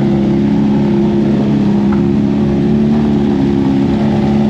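BMW S1000RR superbike's inline-four engine running at steady raised revs, its note holding level.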